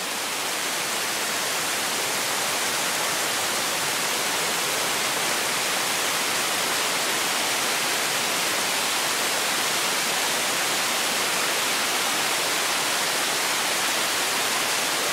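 Heavy tropical rain pouring down steadily, a constant even hiss.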